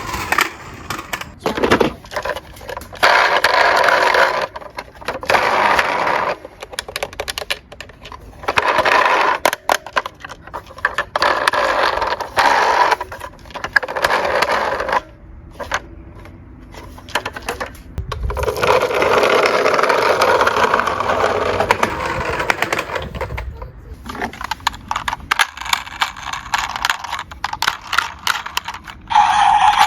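Small toy cars rolling and rattling down a steep slope in runs of about one to two seconds, with scraping and sharp clicks between runs.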